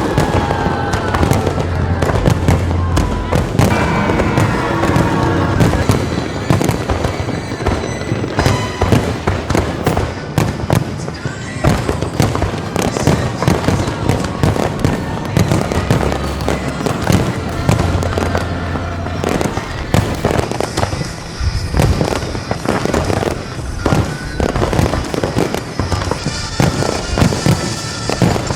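Fireworks display: a dense, continuous run of sharp bangs and crackling pops from exploding shells, with music and voices underneath.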